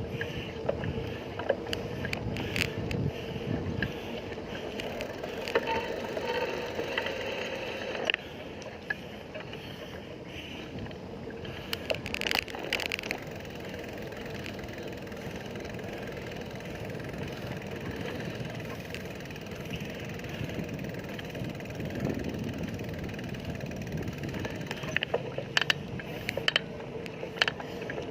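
Steady road and wind noise from a bicycle ride, with scattered clicks and rattles, a cluster of them near the end.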